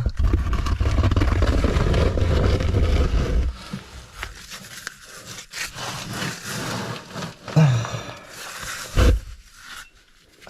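Scraping and rubbing of a caver's clothing and gear against rock while moving down a sloping cave passage: a loud, rough scrape for the first three and a half seconds, then scattered scuffs and a few short thumps.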